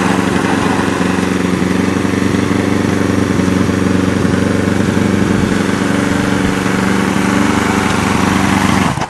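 Motorcycle engine of a home-built go-kart idling steadily, then cutting off suddenly at the very end as it is switched off.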